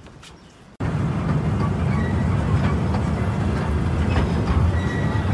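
Small park tourist train running with passengers aboard: a steady low rumble with light clicks and rattles, starting about a second in after a short quiet gap.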